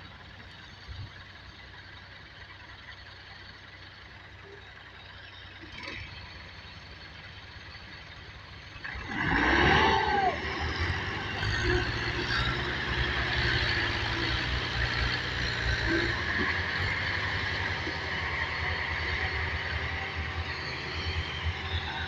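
Ghazi 640 tractor engine revving up hard about nine seconds in, with a brief rising squeal, then running loud and steady under load.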